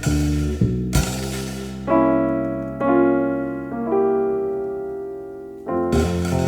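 Jazz trio playing: a keyboard holds chords that ring out and fade over bass notes, with the drums quiet. About six seconds in, the drums and cymbals come back in with the full band.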